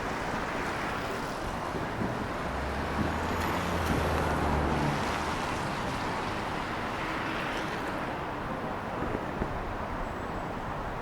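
Street traffic on a wet road: a steady hiss of tyres on wet asphalt that swells as a vehicle with a low engine hum passes, about two to five seconds in.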